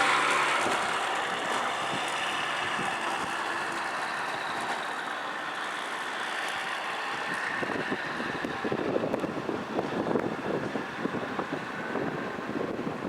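A motor vehicle's engine passes close and fades away over the first couple of seconds, leaving a steady outdoor hiss. About eight seconds in, an uneven fluttering noise comes in.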